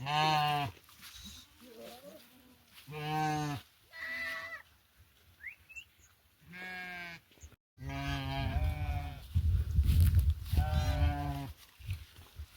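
Sheep bleating: about six separate calls, each under a second, spread across a few seconds. A loud low rumble joins in for the last few seconds.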